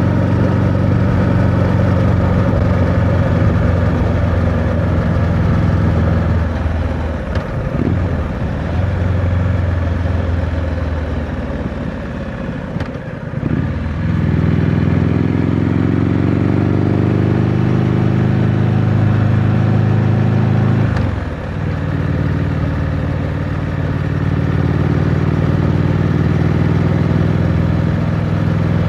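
Triumph Scrambler 900's parallel-twin engine with stock exhaust, running under way. The engine note breaks three times, about 7, 13 and 21 seconds in, as the bike shifts gear. After the second and third breaks the pitch climbs as it pulls through the gears.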